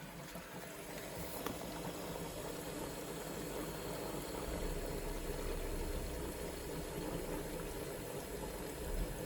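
Countertop mini dishwasher filling with water at the fill stage of its cycle: a steady rush of water, with a low hum joining about halfway through.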